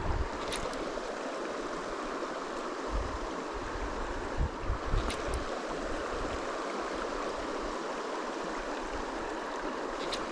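Shallow riffle of a mountain trout stream rushing steadily over a gravel shelf, with a few low thumps near the start and around the middle.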